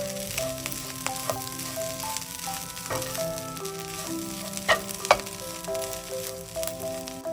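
Food sizzling as it fries in a hot pan, with stirring and a few sharp utensil clicks, the two loudest just under five seconds in. Background music with a simple stepping melody plays throughout.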